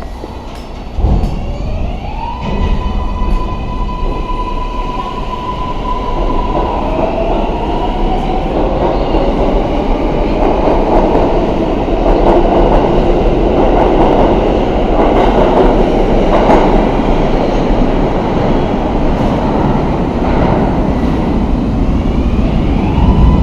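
New York City 6 train subway car heard from on board as it gets under way. About a second in there is a thump, and then the motors whine up in pitch to a steady high tone. After that, the rumble and rattle of the wheels on the track grow louder as the train picks up speed. Near the end the whine rises again.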